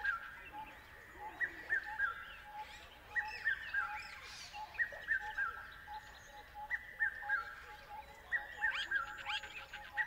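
Birds calling: one repeats a short phrase of three or four quick whistled notes every second or two, while another keeps up a steady series of lower single notes, with scattered chirps over them.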